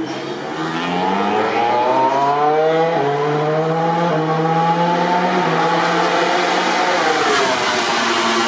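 MotoGP racing motorcycle's 1000 cc four-cylinder engine accelerating hard, its pitch climbing with quick upshifts, holding high, then dropping as the bike passes by.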